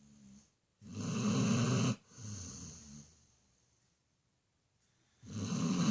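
Dog snoring loud. One loud snore comes about a second in, followed by a softer one, then a pause of about two seconds before the next loud snore starts near the end.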